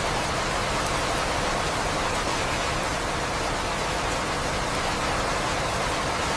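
Rain falling steadily, an even hiss with no breaks or thunder.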